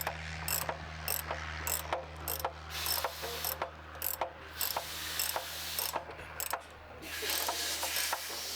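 Socket ratchet wrench clicking as a freed nut on a Bristol Olympus jet engine is wound off, about two clicks a second, then a quicker continuous ratcheting rasp near the end.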